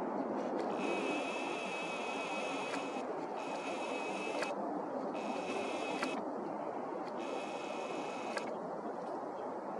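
Camera zoom lens motor whining in four short runs of a second or two each, with a click as each run starts and stops, over a steady background rumble.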